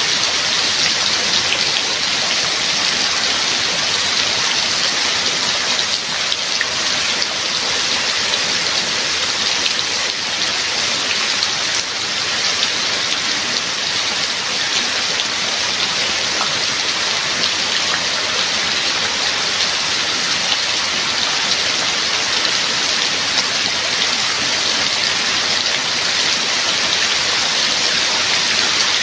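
Steady heavy rain falling, a dense even patter with no thunder.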